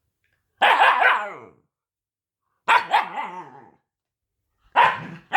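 Husky puppy barking: three drawn-out barks a second or two apart, each starting sharply and trailing off in pitch.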